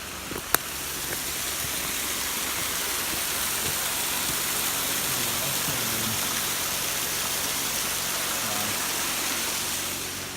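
Waterfall rushing steadily, a dense even hiss of falling water that swells about a second in and eases off near the end.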